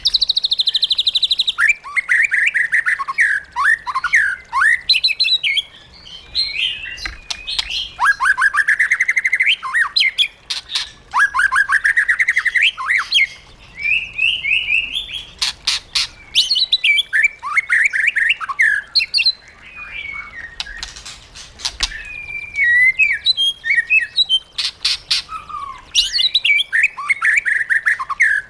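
White-rumped shama singing a long, varied song: rapid trills, rising whistles and harsh chattering notes in bursts of a second or two, with sharp clicks between phrases.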